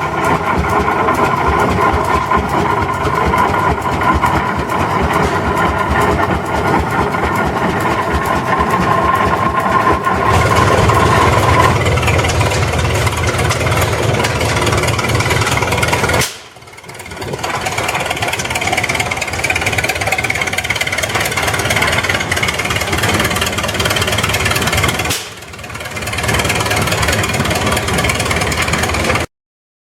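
Antique tractor engines running steadily, heard in several joined clips: the sound changes about a third of the way in, drops out briefly twice at the cuts, and stops abruptly just before the end.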